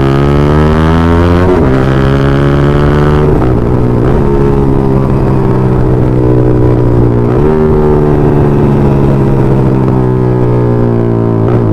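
Yamaha MT-15's 155 cc single-cylinder engine through a full-system aftermarket exhaust, running under way with a loud, steady growl. Its note shifts several times as the revs change.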